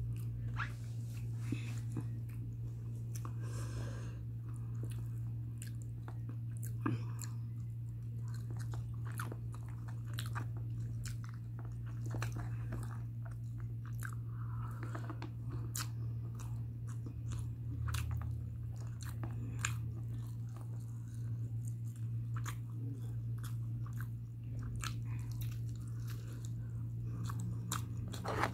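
Close-up chewing of mutton biryani eaten by hand: wet mouth smacks and small clicks, many of them in quick irregular succession. A steady low hum runs underneath.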